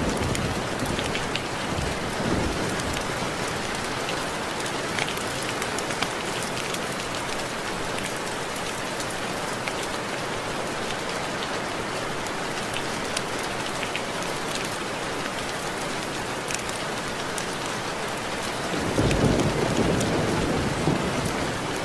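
Steady rain falling on a window, with many small drops ticking on the glass. A low rumble of thunder swells up near the end.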